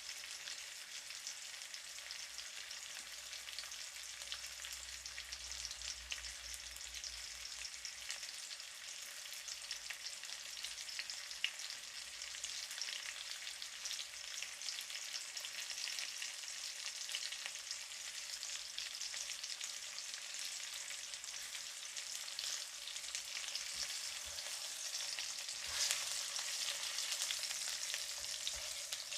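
Chicken drumsticks on the bone pan-frying in oil, a steady sizzle with fine crackling and spitting, browning on one side.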